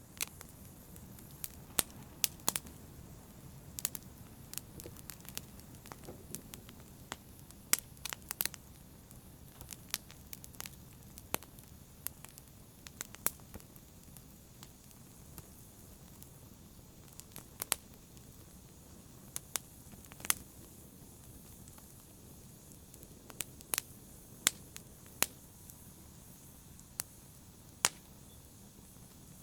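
An open fire crackling: irregular sharp pops, roughly one a second, over a soft steady hiss and rustle of the flames.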